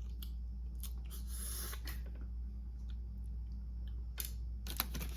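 Close-miked eating of a seafood boil: scattered wet clicks and crunches of chewing and handling crab and shrimp, with a short soft rustle about a second in, over a steady low hum.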